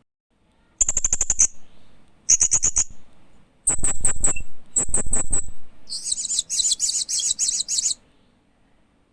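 Hanging parrot (Loriculus) chirping in short bursts of rapid, high-pitched chirps, five bursts in all with short pauses between them, the last one the longest.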